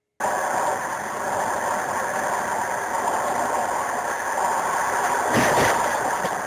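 Steady vehicle and road noise that cuts in abruptly just after the start, with a brief louder rush about five and a half seconds in.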